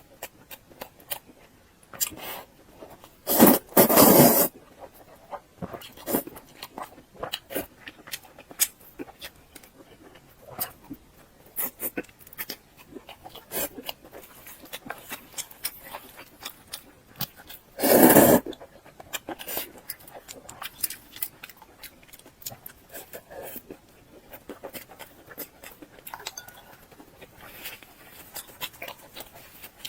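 Close-miked eating: a person chewing with wet mouth clicks and smacks throughout, and two louder bursts of biting or crunching about four seconds in and again near the middle.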